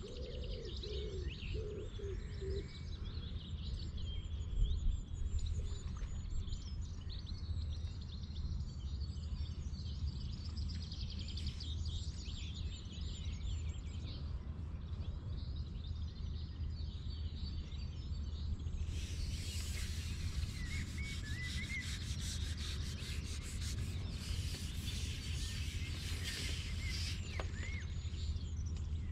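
Small birds chirping and singing over a steady low rumble, with a long stretch of rustling, rubbing noise in the second half.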